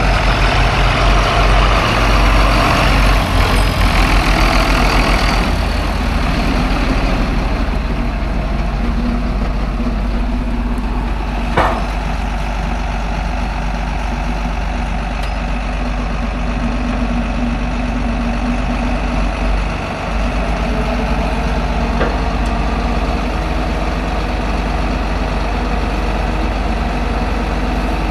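Heavy farm vehicle engine running steadily, louder for the first five seconds or so, with one sharp click about eleven and a half seconds in.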